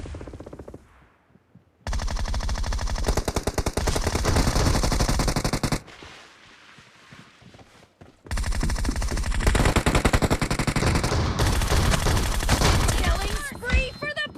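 Video-game automatic gunfire: two long bursts of rapid shots, one starting about two seconds in and the other about eight seconds in, with a short lull between them.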